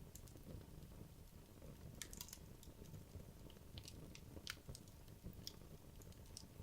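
Wood logs burning in a fireplace: a low, steady rumble of the flames with irregular sharp crackles and pops, a quick cluster about two seconds in and a sharper pop past the middle.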